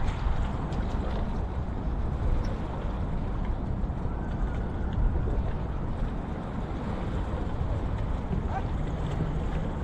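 Waterfront ambience: a steady low rumble of wind on the microphone and a boat passing on the water.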